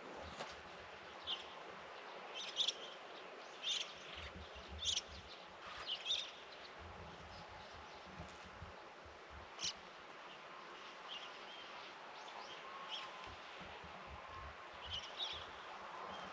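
Birds chirping in short, scattered calls over a steady outdoor hiss.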